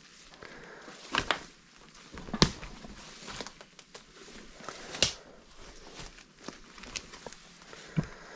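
Footsteps crunching and knocking on debris: scattered crunches over a faint hiss, with a few sharper ones about a second, two and a half seconds, five seconds and eight seconds in.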